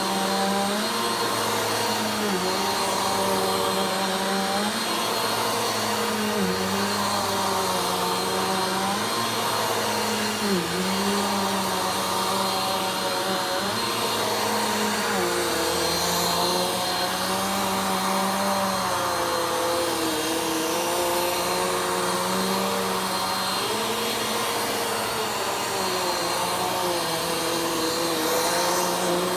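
Vacuum cleaner running steadily, its motor whine dipping briefly in pitch every few seconds and recovering.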